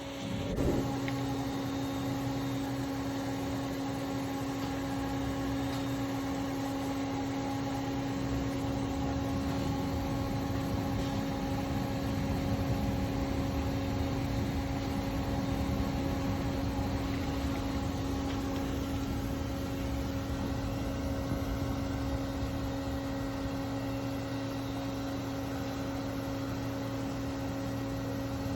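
TIG welding on pipe during a root pass: a steady, unchanging hum with an even hiss underneath.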